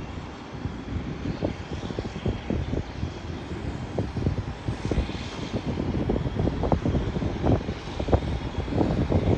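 Aircraft engine noise, a steady rushing haze, with gusty wind buffeting the microphone throughout.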